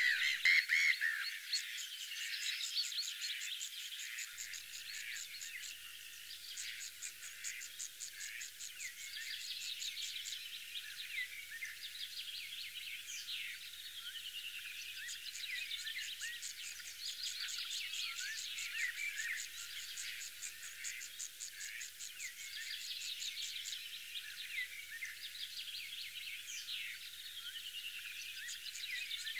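Birds singing and calling, many overlapping chirps and short whistled phrases, with fast high trills that repeat every few seconds.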